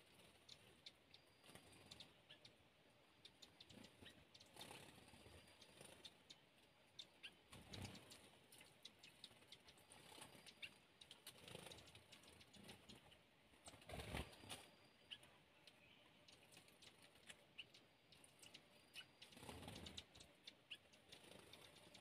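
Faint woodland birdsong: scattered short, high chips and whistles among light clicks, with a soft swish every few seconds.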